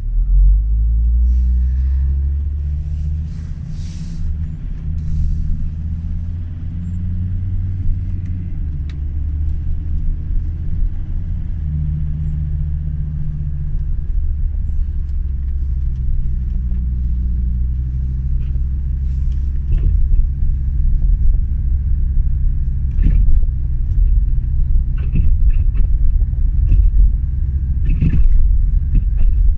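Volvo V70 II with a steady low rumble from the car, broken by sharp knocks and short squeaks from the front axle: one about four seconds in and a run of them in the second half. This is a clunk-and-squeak fault that workshops have not been able to trace.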